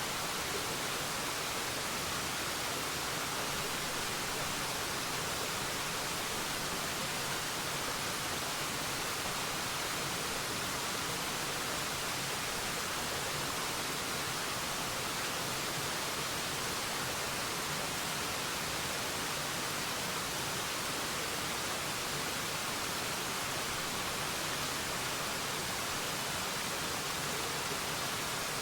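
Waterfall rushing steadily: an even, unbroken hiss, strongest in the high range, with no change in level.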